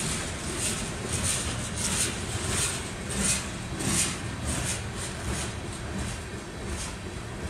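Freight train cars rolling past: a steady rumble with an irregular run of sharp high clicks and squeaks from the wheels on the rail.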